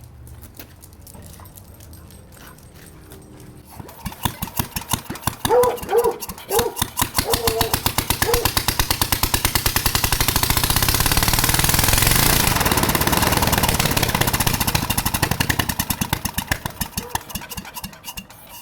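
1951 Briggs & Stratton 23A-FB single-cylinder L-head engine running with no muffler: after a few seconds of faint, slow firing it picks up about four seconds in with loud, sharp exhaust pulses. It speeds up to a peak about twelve seconds in, then slows again near the end.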